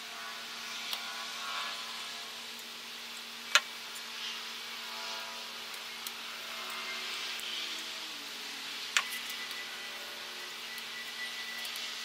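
Diamond sharpening stone rubbed by hand along a steel hatchet edge: irregular rasping strokes with a few sharp clicks, one of them, about nine seconds in, leaving a brief metallic ring.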